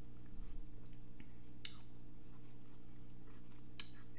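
Mouth-closed chewing of a mouthful of watermelon: faint wet mouth clicks, with two sharper smacks, one at about a second and a half in and another near the end. A steady low electrical hum runs underneath.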